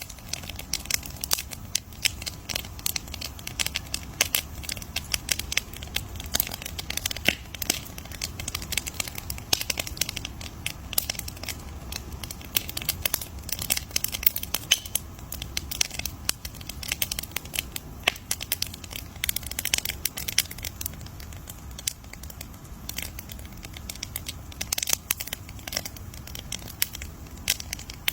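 Wood fire crackling: constant irregular snaps and pops over a low, steady rumble of burning.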